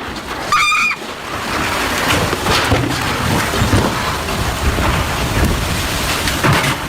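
Loud, steady rushing noise of rough water and storm with a deep low rumble. A short pitched cry is heard about half a second in.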